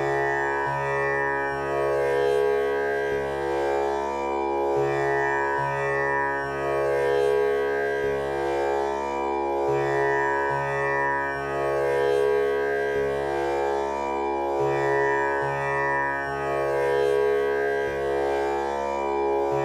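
Tanpura drone tuned to C# (the male scale), its strings plucked one after another in a slow repeating cycle about every five seconds, each note sustaining with the instrument's buzzing, shimmering overtones.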